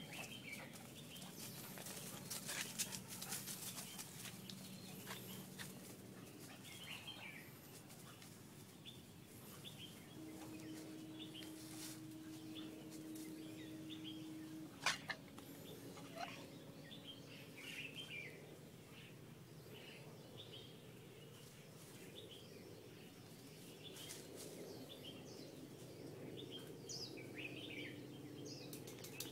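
Faint outdoor ambience of small birds chirping repeatedly, with a faint steady low hum at times and a single sharp click about halfway through.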